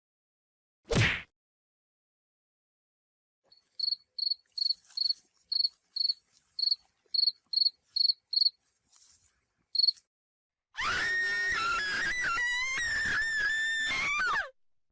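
A short, sharp burst about a second in, then a cricket chirping at an even pace, about two high chirps a second, for some six seconds. Near the end comes about four seconds of a dense sound with several wavering tones.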